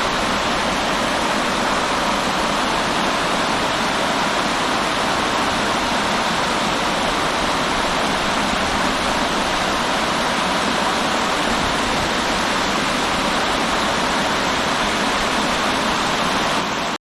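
River water rushing steadily, a dense even rush like a small weir or rapids; it cuts off suddenly just before the end.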